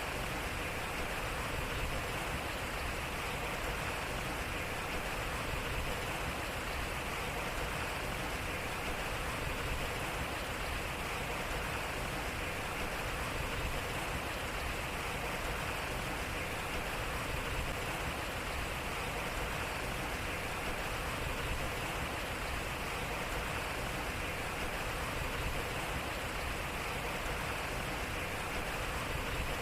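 Water running and splashing steadily at a turning water wheel, an even rushing with a low rumble underneath.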